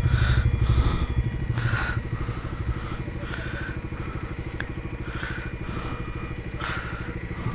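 Single-cylinder two-wheeler engine running at low revs with an even pulse. It is louder for the first couple of seconds, then settles to a steady low running.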